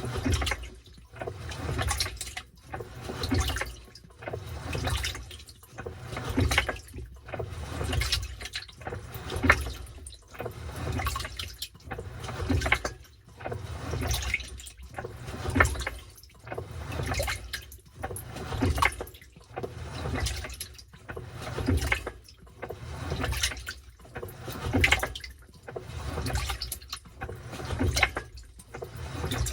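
Washing machine churning its load in water during the wash cycle: water sloshes and splashes in regular surges, about one a second.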